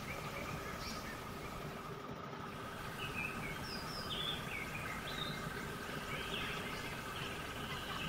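Birds chirping in short, scattered calls over a steady background hum.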